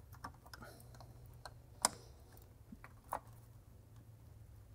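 Plastic electrical connectors and corrugated wiring loom being handled and pushed into place by hand: a few scattered sharp clicks and light plastic ticks, the sharpest about two seconds in and another about a second later.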